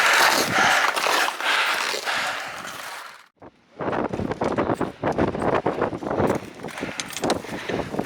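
Strong mountain wind buffeting the microphone in gusts, with a brief cut-out about three seconds in.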